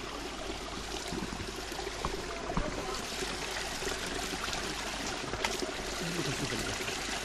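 Spring water running and trickling steadily, a small natural spring flowing over the ground.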